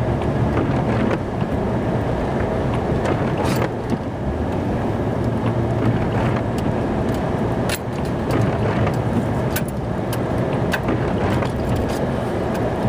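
Snow-plow truck running, heard from inside the cab: a steady low engine and drive noise, with a few sharp ticks scattered through it.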